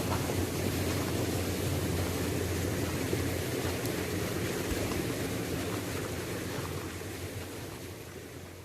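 Waterfall rushing as a steady, even roar of falling water, fading down over the last few seconds.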